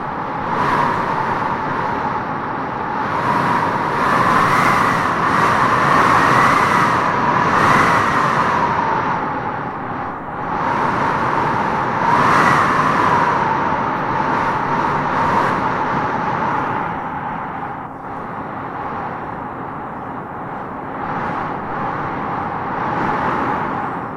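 Wind howling in gusts through trees, a whistling note rising and falling over a steady rush. The gusts swell from about four to eight seconds in and again around twelve seconds, then ease off.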